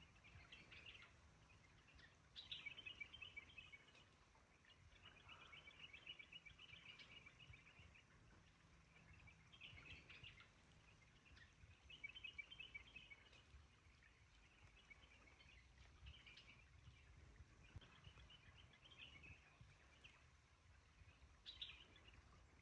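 Faint bird song: short, rapid trills repeating every second or two over a low background rumble.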